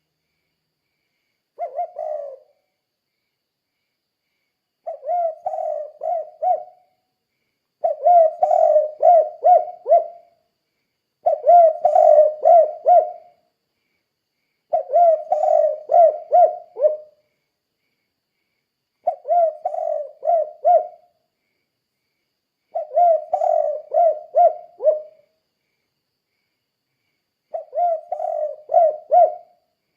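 Spotted dove (tekukur) cooing: eight short phrases, each a quick run of four to six coos, repeated every three to four seconds.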